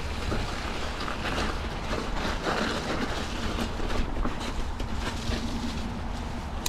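Mountain bike rolling fast over a snowy, muddy trail: wind buffets the microphone with a steady low rumble, and the bike rattles and clatters over the bumps in quick irregular clicks.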